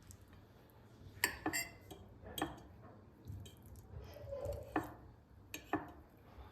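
Dishes and utensils being handled in a kitchen: about six separate sharp clinks and knocks, some in quick pairs.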